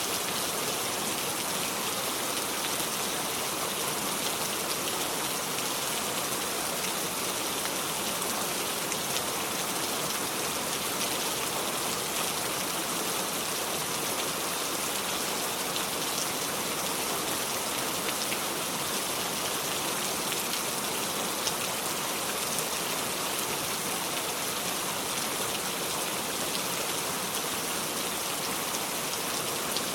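Steady heavy rain falling without thunder, an even hiss with scattered drops pattering on a surface.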